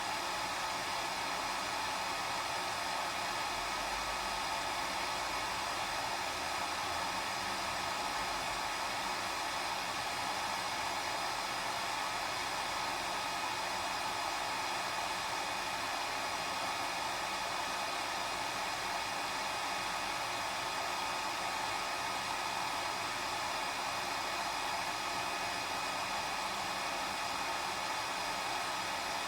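Hair dryer running steadily: an even, unbroken rush of air with a faint steady motor whine.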